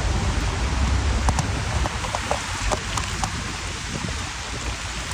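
Steady rain hiss with a low rumble underneath, and a handful of sharp raindrop ticks between about one and three seconds in.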